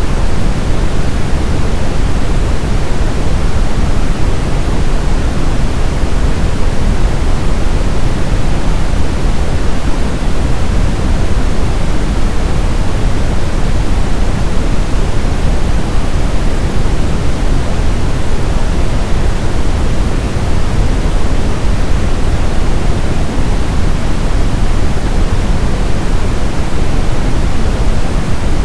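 Synthetic brown noise: a steady, deep rushing hiss with its weight in the low end, unchanging throughout.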